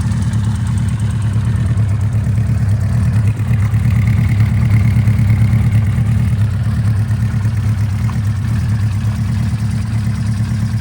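1975 Honda CB400F Super Sport's air-cooled inline-four engine idling steadily, still warming up less than a minute after a cold start on full choke.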